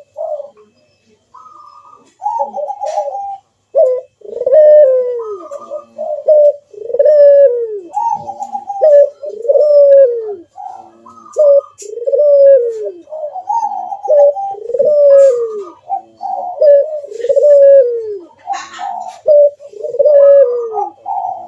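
Puter doves (ringneck/Barbary doves) cooing in a steady repeated series, each loud coo falling in pitch, about one every second or so. Higher-pitched coos overlap some of them, as from more than one bird.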